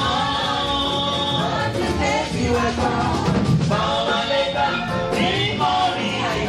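Yoruba gospel praise song: voices singing over instrumental accompaniment.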